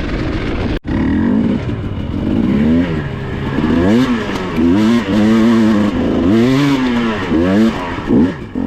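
Dirt bike engine revving up and down over and over, its pitch rising and falling about once a second as the rider works the throttle through an obstacle. The sound drops out for an instant about a second in.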